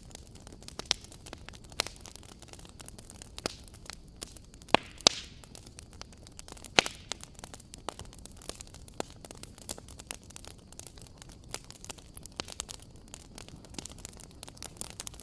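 Wood fire crackling in a fireplace: irregular sharp pops and snaps over a low steady hiss, with a few louder pops in the first seven seconds.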